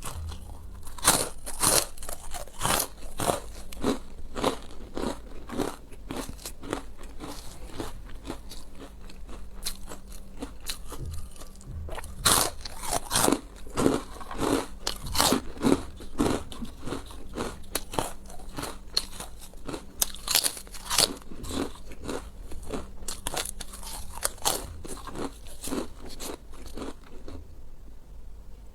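Close-miked eating: a person biting into and chewing crunchy food, with a run of sharp, irregular crunches about one or two a second.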